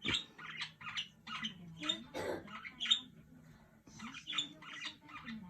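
Pet budgerigars chattering: a steady run of short, quick chirps and squawks, with one sharper, louder call about three seconds in.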